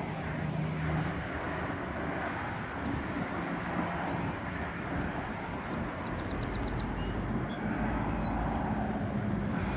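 Steady vehicle noise: a car running, with a continuous low rumble. A quick run of about six short high chirps sounds about six seconds in.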